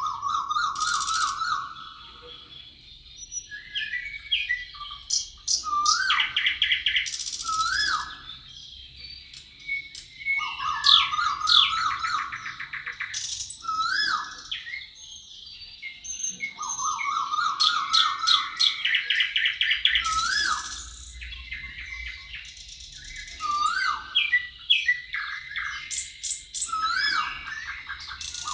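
Several songbirds singing together in a forest. One repeats a trilled phrase about every eight or nine seconds, and others add short rising whistles and fast, high trills in between.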